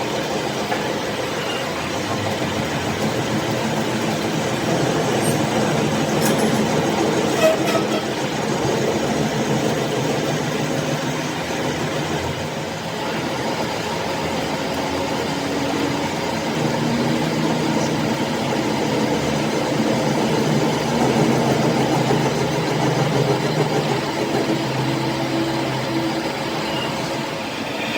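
Heavy machinery running steadily, a continuous mechanical rumble with shifting low tones and a few faint clicks.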